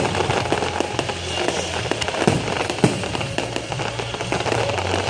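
Fireworks going off in quick succession: a dense run of sharp crackles and pops, with a few louder bangs.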